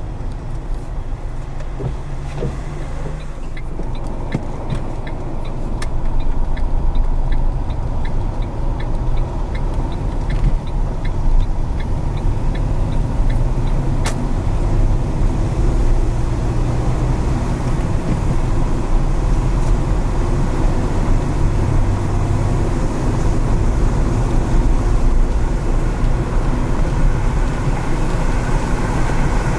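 A car driving, with steady engine and road noise that rises a little about six seconds in. A light, regular ticking about twice a second runs for several seconds, and a single sharp click follows.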